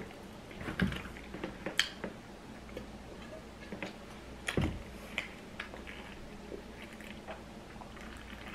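Close-up eating mouth sounds: scattered soft clicks and smacks of chewing, the mouth popping. One louder knock comes about halfway through.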